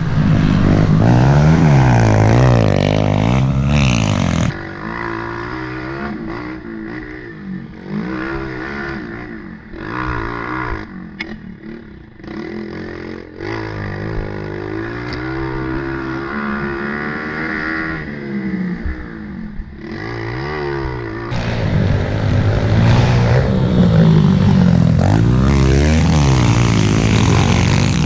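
Small four-stroke pit bike engines revving up and down as the bikes ride laps on a dirt track. The engines are loud and close for the first few seconds, drop suddenly to a fainter revving, and are loud and close again for the last several seconds.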